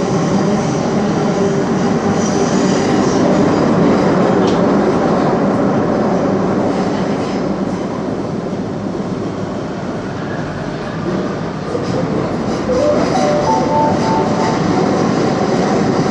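Metro train running through a tunnel, heard from inside the car: a steady rumble of wheels on rails, easing slightly in the middle. Near the end a whine rises in steps as the train picks up speed.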